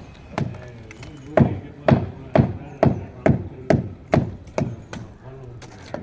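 A run of heavy chopping or striking blows, about two a second, pausing near the end, with faint voices between them.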